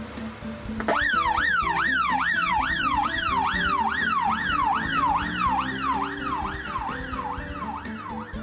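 Emergency vehicle siren in a fast wail, its pitch sweeping up and down about twice a second. It starts about a second in, over light background music.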